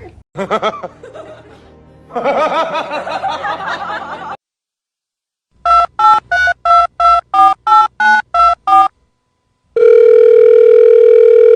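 Touch-tone phone keypad dialing a number, about eleven short two-tone beeps in quick succession, followed after a brief pause by a steady telephone tone of about two seconds. Before the dialing comes about two seconds of a wavering, pitched cry, then a moment of silence.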